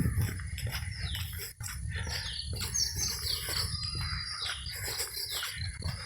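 Birds calling in a run of short, high notes, each sliding downward, repeating about twice a second. A steady high hiss and a low rumble sit underneath.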